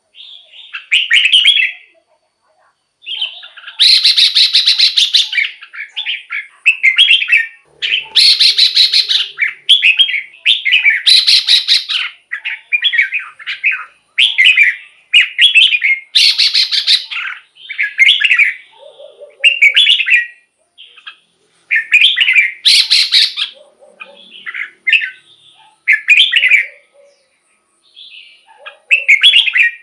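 Red-whiskered bulbul singing a run of short, quick whistled phrases one after another. Several louder, harsher buzzy notes are mixed in among them.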